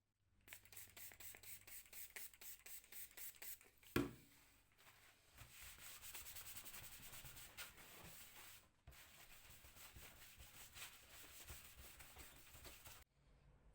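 Faint hand sanding or rubbing on a surface in quick back-and-forth strokes, about five or six a second. There is one sharp knock about four seconds in, then steadier, denser rubbing that pauses briefly and stops about a second before the end.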